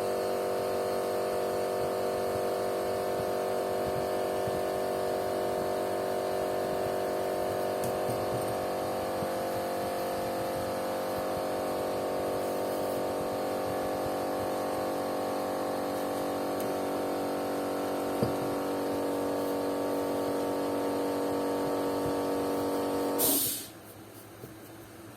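A small electric motor tool running at a steady speed with an even whine, switched off with a click about 23 seconds in.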